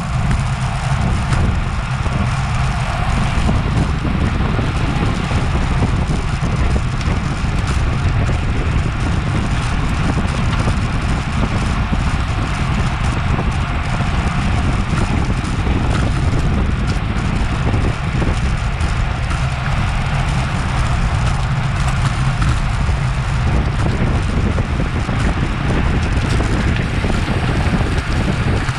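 Steady wind noise buffeting the microphone of an action camera on a racing bicycle at speed: a constant low rumble with a hiss above it.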